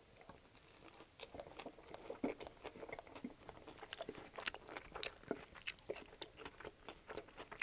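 A bite into a small piece of Subway Italian BMT sub on herb-and-cheese bread with crisp vegetables, then close-miked chewing with many irregular crunchy crackles.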